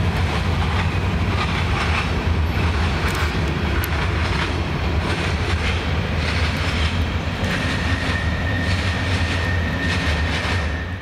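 Empty aggregate hopper cars of a freight train rolling past: a steady rumble of steel wheels on rail, with clicks as the wheels pass. A thin, steady high wheel squeal joins in about seven and a half seconds in.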